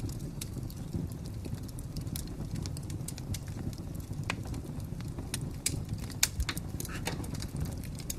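Fire crackling: irregular sharp pops and snaps over a steady low rumble, with a few louder pops a little past the middle.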